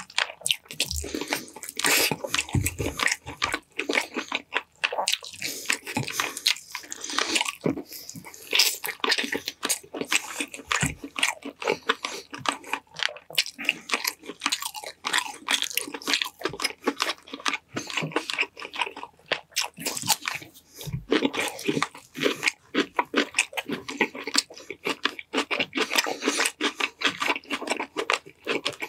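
Close-miked mouth sounds of a man eating glazed chicken drumsticks: continuous chewing and lip smacking with sticky wet clicks and some crunching.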